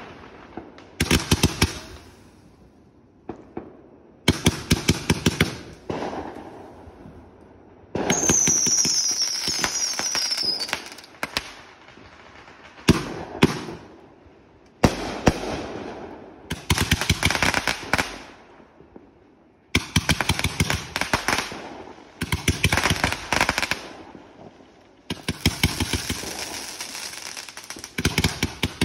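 Fireworks going off in repeated volleys, a cluster of rapid crackling pops and bangs every couple of seconds. About eight seconds in, two falling whistles sound over the crackle.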